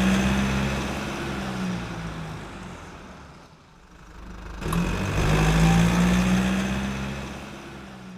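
A car engine sounding in two swells: loud at first and dying away, then rising again about halfway through and fading once more.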